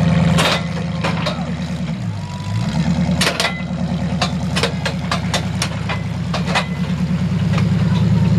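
Big-engined mud truck running with a heavy low rumble; the revs dip briefly about two seconds in and pick back up. Scattered short sharp clicks and knocks sound over it.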